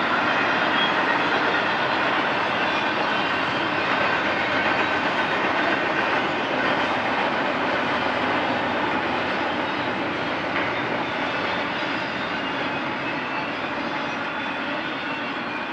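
Intermodal freight train rolling past, a steady noise of wheels on rail that eases slightly near the end.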